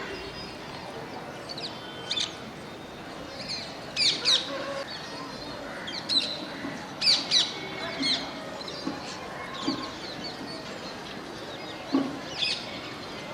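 A flock of parrots calling: many short, sharp, high-pitched calls, some in quick pairs or clusters, over a steady background of more distant calling.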